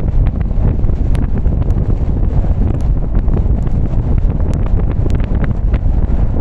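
Steady low rumble of a car driving in the rain, heavy wind buffeting on an action camera's microphone, with scattered light ticks of raindrops striking.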